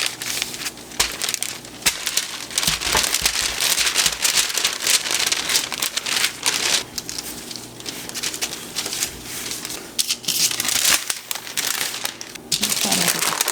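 Parchment paper crinkling and rustling under a rolling pin as cookie dough is rolled flat between two sheets, in uneven back-and-forth strokes.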